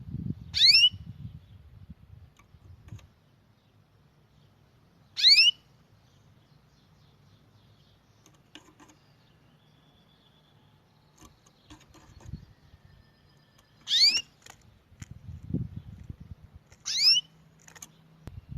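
A small songbird giving four short, loud, high calls a few seconds apart, each a quick sweep in pitch, with faint clicks and low rumbling in the gaps.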